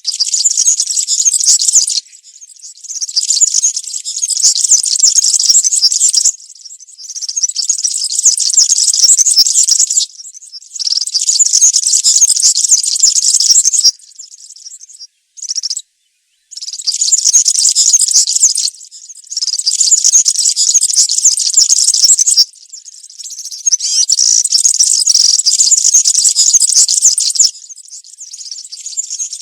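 European serin singing: fast, high-pitched jingling twitter delivered in song bursts two to four seconds long, separated by short pauses, with one very brief snatch of song about halfway through.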